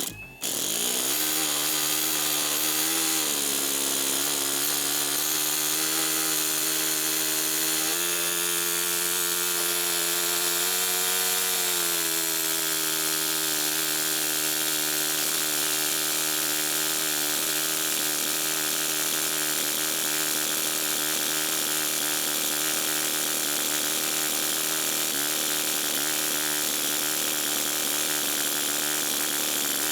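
Small four-stroke glow engine of a Kyosho Super Ten RC car running steadily through a homemade muffler, with a small rise in pitch a few seconds in and a longer swell midway before it settles back.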